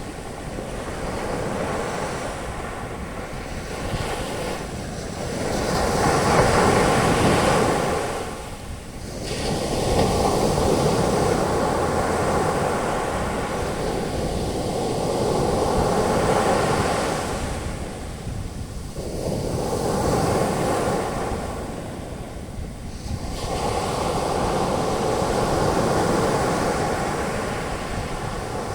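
Ocean surf on a beach: waves breaking and their foam washing up the shore, the roar swelling and easing every few seconds. Wind rumbles on the microphone underneath.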